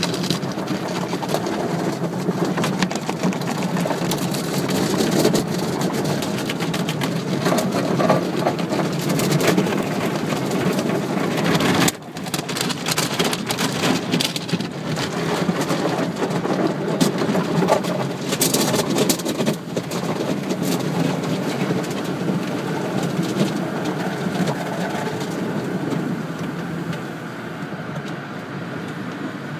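Automatic car wash jets spraying water onto a car, a dense, rain-like drumming hiss over a steady low hum. It dips briefly about twelve seconds in and eases slightly near the end.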